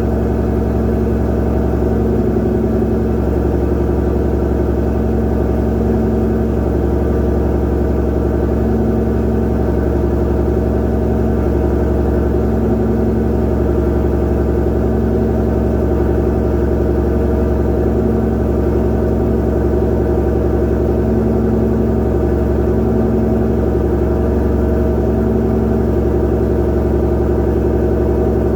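Supercharged 5.2-litre V8 of a 2020 Shelby GT500, fitted with ARH headers and a Borla exhaust, idling steadily and loudly on a cold start with no revving.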